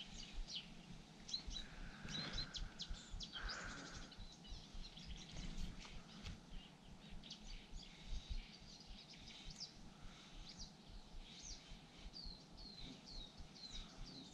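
Small songbirds chirping and singing on and off, in short, repeated calls that often fall in pitch, over a faint low rumble.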